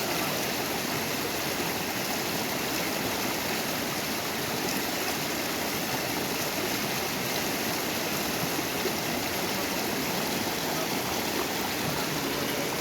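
Small river rushing over stones: a steady, even rush of flowing water.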